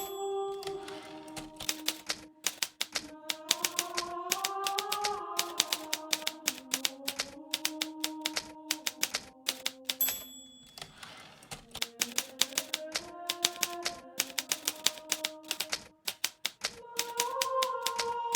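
Hermes Baby portable typewriter typing: rapid runs of keystrokes with short pauses between them. Soft background music with slowly changing held chords plays underneath.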